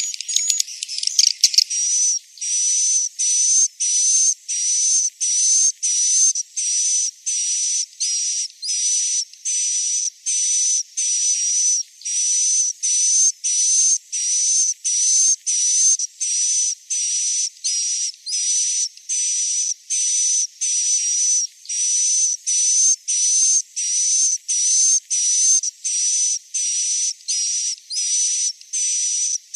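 Swiftlet roosting-lure call (suara inap), a recorded edible-nest swiftlet chirp played to make young swiftlets settle and stay in a swiftlet house. A short chirp with a steady high tone repeats about one and a half times a second, after denser twittering in the first two seconds.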